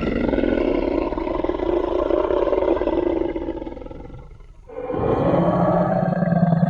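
Tyrannosaurus rex roar sound effect: a long, loud, rumbling roar that fades out about four seconds in, then a second roar begins just after.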